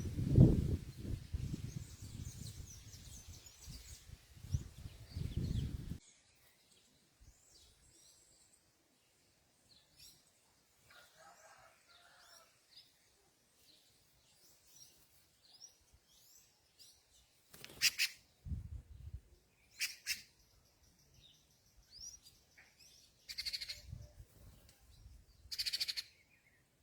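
Wild birds chirping and calling at a fruit feeder: scattered short, high chirps, with a few louder single calls in the second half. A low rumble fills the first six seconds and stops abruptly.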